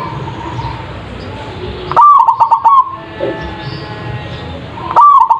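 Zebra dove (perkutut) cooing: two loud song phrases about three seconds apart, each a rising first note followed by a quick run of short coos lasting under a second. A steady hiss of background noise lies under them.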